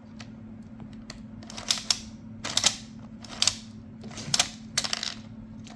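Nerf Elite 2.0 Double Punch foam-dart blaster being worked: a series of sharp plastic clacks and snaps, coming in about five close pairs, over a faint steady hum.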